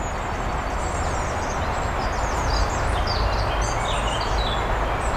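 Birds chirping and singing over a steady outdoor background noise with a low rumble.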